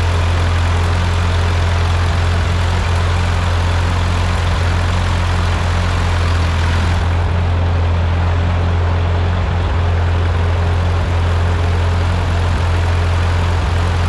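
Ford 8N tractor's four-cylinder flathead engine running steadily at an even speed.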